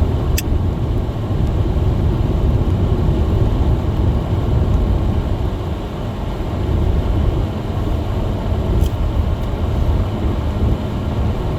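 Steady low rumble of a car driving up a snow-covered road, heard from inside the cabin: engine and tyre noise, with a light click shortly after the start and another faint one near nine seconds in.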